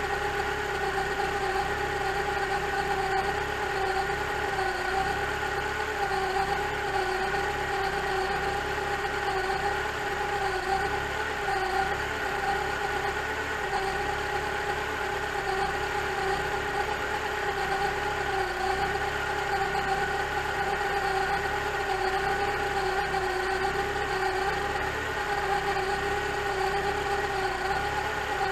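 Rebuilt 2.4-litre long-rod Mitsubishi Lancer Evolution IX four-cylinder idling steadily, with a constant whine from the timing belt over the engine's running, a noise that appeared after the rebuild.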